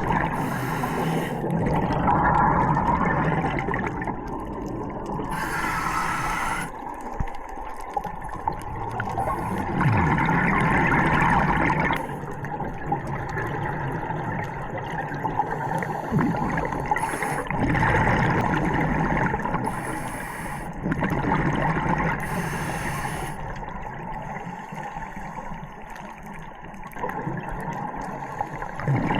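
Scuba diving underwater: a regulator's breathing, with bursts of exhaled bubbles rushing past every few seconds.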